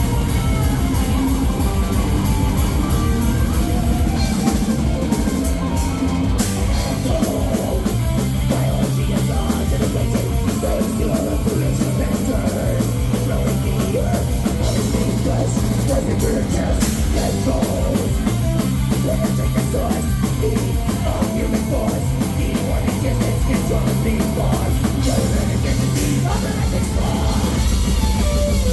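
Live heavy metal band playing loud distorted guitars, bass and drum kit, heard through a cellphone microphone.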